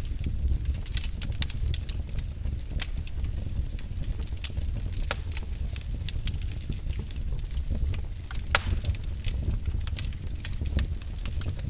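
Fireplace fire crackling: irregular sharp pops over a low steady rumble, with one louder pop about eight and a half seconds in.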